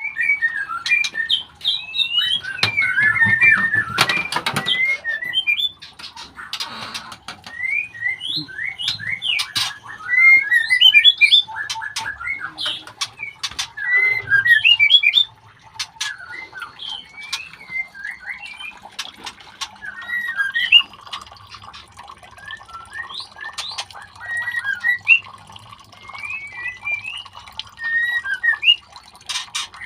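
White-rumped shama chicks giving rapid short squawking chirps and whistled calls, with scattered sharp clicks and a noisy burst of handling a few seconds in.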